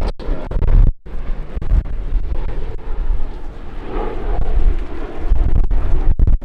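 Wind rumbling on the microphone over the low drone of the Lockheed P-38 Lightning's twin piston engines, a little louder about four seconds in.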